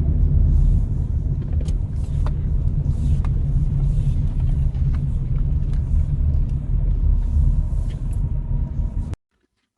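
A steady, loud low rumble with a few scattered clicks, cutting off suddenly about nine seconds in.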